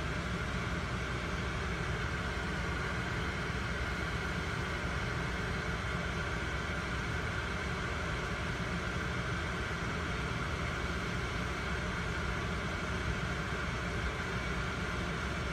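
Steady hum and hiss inside a stopped car's cabin with the engine idling.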